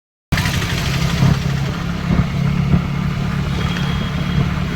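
TVS Ntorq scooter engine idling steadily, with a few faint, irregular ticks: the 'kit kit' noise the owner cannot yet trace, which a new drive belt has not cured.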